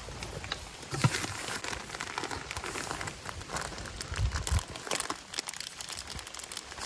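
Thin plastic bag crinkling and rustling as it is handled, in irregular crackles, with a couple of dull low knocks.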